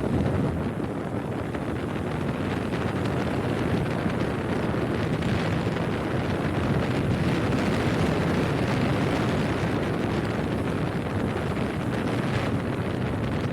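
Wind buffeting a phone's microphone on a moving motorcycle: steady, low-heavy wind noise with no letup.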